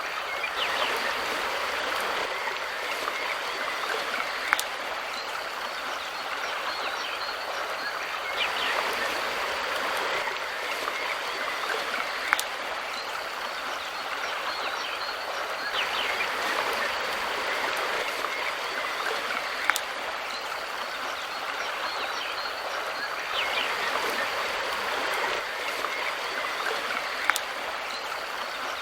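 Mountain river water rushing steadily, swelling every several seconds, with faint bird chirps. A short sharp tick recurs about every seven and a half seconds.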